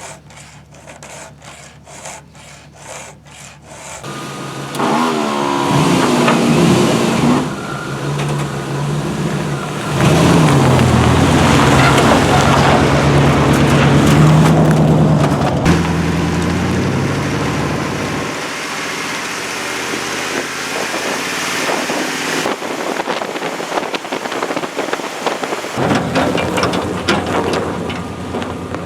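Chainsaw revving and cutting through logs, its pitch rising and falling under load. Quick, regular ticking fills the first few seconds.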